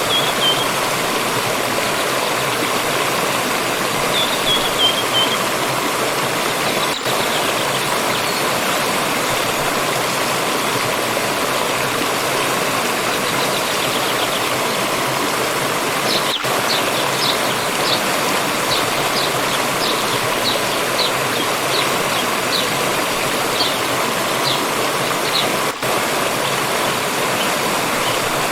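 Steady rushing of a forest stream. Over it a small bird calls now and then: a short falling phrase at the start and again about four seconds in, then a run of short high chirps through the second half.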